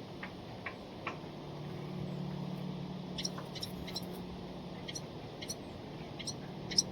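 A wren giving short, high, repeated chip calls, starting about three seconds in and loudest near the end, over a low steady hum.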